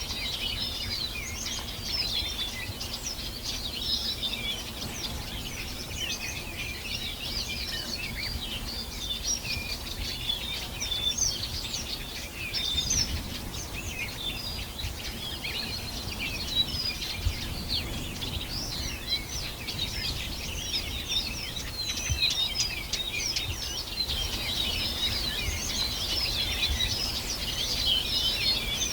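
Many songbirds chirping and singing at once, a dense, unbroken chorus of short, high chirps and trills, over a faint low rumble.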